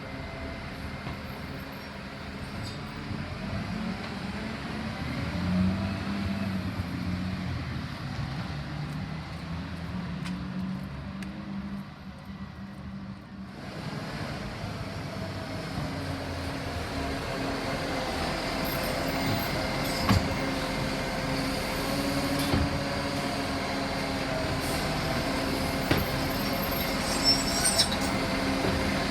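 Euro 6 garbage truck's diesel engine running, its pitch rising and falling as it revs, with a few sharp clanks in the second half.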